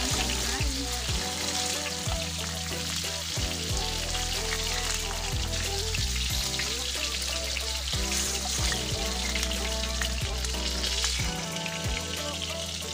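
Chicken lumpiang shanghai (Filipino spring rolls) frying in hot oil in a pan, a steady sizzle.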